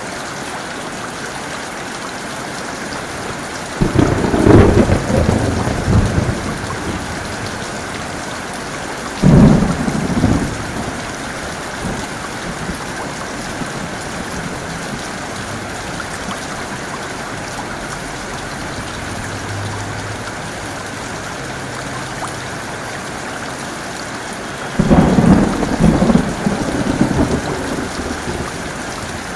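Heavy rain falling steadily, with three rolls of thunder: one a few seconds in, a shorter, sharper one about a third of the way through, and a longer rumble near the end.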